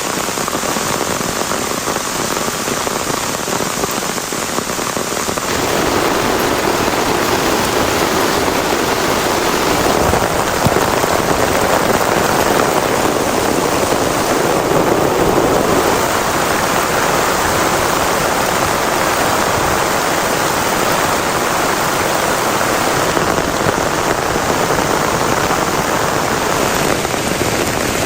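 Heavy rain falling steadily, growing heavier about five and a half seconds in.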